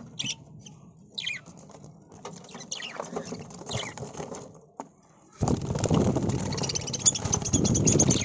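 Caged budgerigars chirping in short high calls. About five seconds in, a loud burst of wing-flapping and fluttering starts, with chattering over it.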